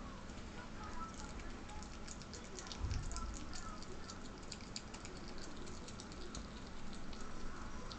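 Ferret chewing a thawed day-old chick, a rapid irregular run of small crunching clicks, with a dull bump about three seconds in.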